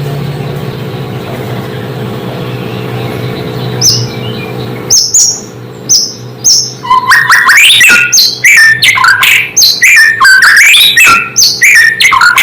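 White-rumped shama (murai batu) singing: a few short high whistled notes about four seconds in, then from about seven seconds a loud, rapid run of varied whistles and phrases that jump up and down in pitch. A steady low hum sounds underneath through the first half.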